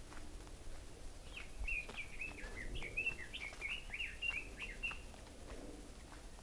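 A small songbird twittering, a quick jumble of high chirps that starts about a second in and lasts about four seconds. Under it, faint footsteps on a dirt path.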